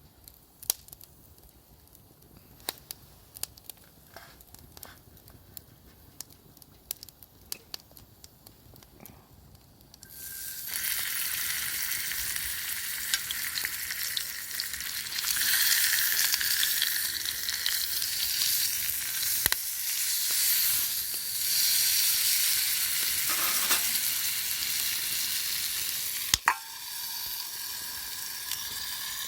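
A few light clicks and knocks, then about ten seconds in food goes into a hot pan and starts frying with a loud, steady sizzle that keeps on. A single sharp knock comes near the end.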